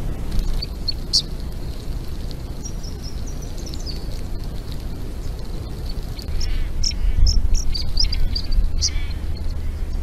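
Small birds chirping and giving short high trills, several in a row late on, over a loud steady low rumble from the trail camera's microphone. The rumble steps up about six seconds in.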